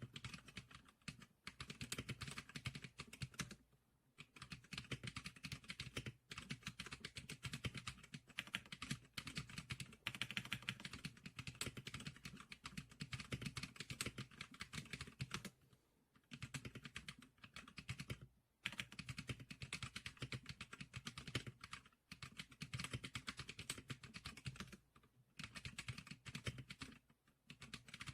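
Fast typing on the SPK100 computer keyboard: a dense run of key clicks, broken by short pauses every few seconds.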